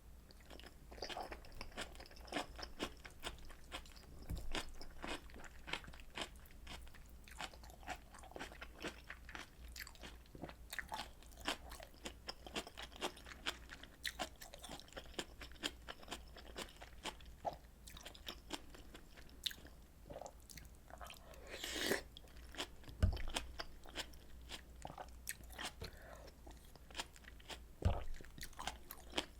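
Close-miked eating: steady chewing with many small wet mouth clicks, a louder noisy burst about two-thirds of the way through, and three short low knocks.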